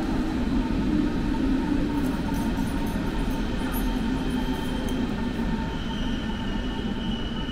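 Berlin S-Bahn electric train running at a station platform: a steady rumble, with a high thin tone coming in about six seconds in.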